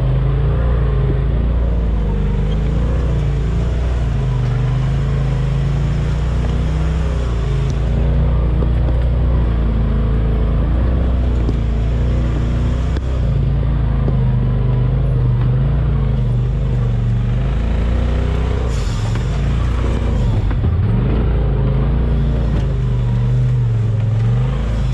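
Side-by-side UTV engine running under changing throttle, its pitch rising and falling.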